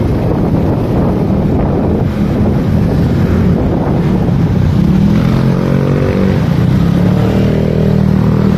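Motorcycle engine running on the move, with wind buffeting the microphone; about five seconds in the engine note climbs as it speeds up.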